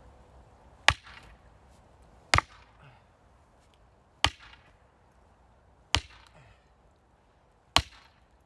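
Axe striking firewood, five sharp chops at an even pace about every two seconds.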